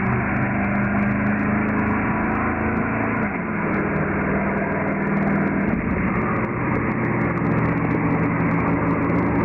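Drag-racing car engines running at a drag strip: a steady, loud engine drone whose low tones shift a couple of times.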